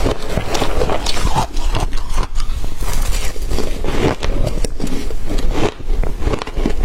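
Shaved ice being chewed close to the microphone: a dense, irregular run of crackly crunches.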